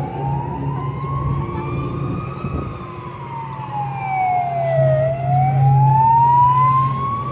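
Emergency siren wailing, its pitch rising and falling slowly: up for about two and a half seconds, down to a low point about five seconds in, then up again. A steady low hum runs underneath.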